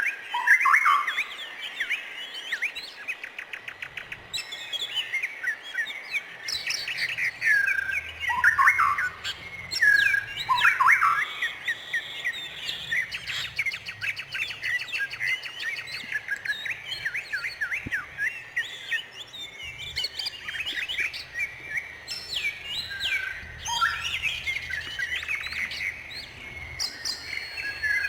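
Several small songbirds chirping and trilling at once: a busy chorus of quick, overlapping calls and downward-sliding notes, with no pauses.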